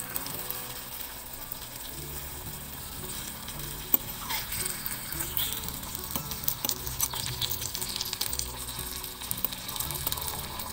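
Squid, ginger and chili sizzling in oil in a tiny steel pot, with small clinks and scrapes of a thin metal utensil stirring them. A sharp click sounds about four seconds in.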